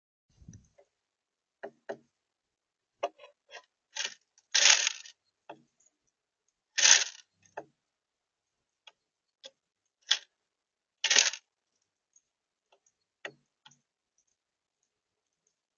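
Birds at a feeder close to the microphone: irregular light taps and clicks, with three louder scratchy scuffles.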